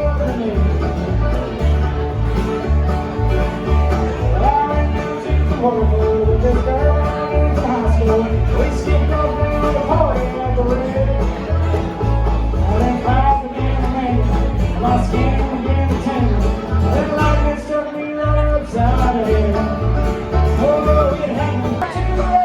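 Bluegrass band playing, with banjo and guitar over a steady bass beat and a sliding lead melody line.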